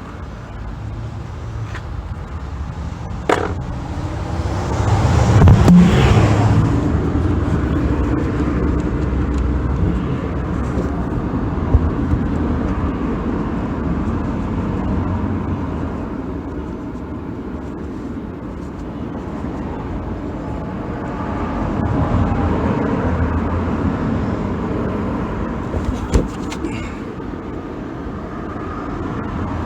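Road traffic going by, a steady low rumble that swells twice as vehicles pass, with a few sharp metallic clicks.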